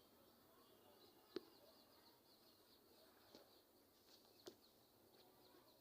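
Faint, quick high-pitched bird chirps repeating over a quiet background, with two sharp clicks, about a second and a half in and again past four seconds.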